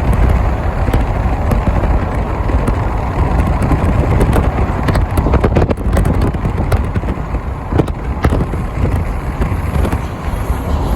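Freight train rolling by: a steady low rumble with sharp metallic clacks of wheels, in a cluster about five to six seconds in and again near eight seconds.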